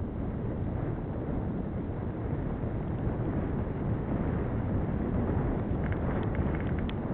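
Wind buffeting the microphone of a camera riding on a moving bicycle: a steady low rumble of rushing air. A few faint short high ticks come near the end.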